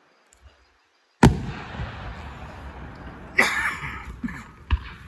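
Fireworks going off: after about a second of near silence, one loud sharp bang, then a short hissing crackle, then a second, shorter bang near the end.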